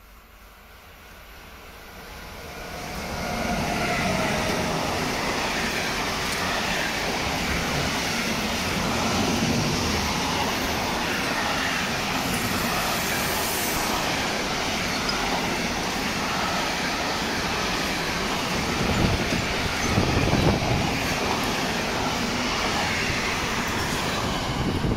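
Freight train hauled by an ÖBB locomotive approaching, growing louder over the first few seconds. It then passes close by as a steady rumble and rattle of wheels on rail while the intermodal container and trailer wagons go past.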